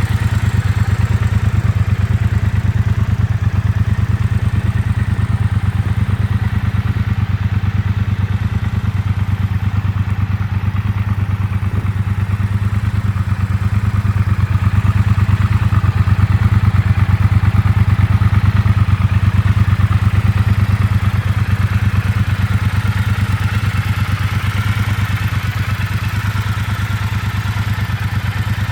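Triumph Bobber Black's 1200 cc parallel-twin engine idling steadily, growing slightly louder for a few seconds midway.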